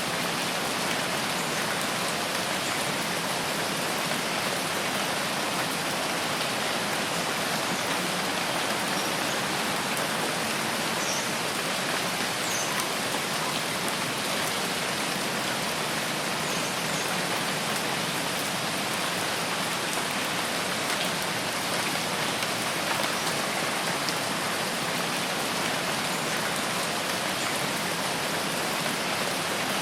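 Steady rain falling in a forest, an even hiss of many drops that holds level throughout. A few faint, short high chirps sound about a third of the way in.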